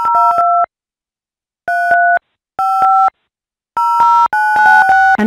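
Touch-tone (DTMF) keypad tones from Skype's on-screen dialpad: a string of short two-note beeps in uneven bursts, some in quick runs, keying a group of digits into an automated phone activation line.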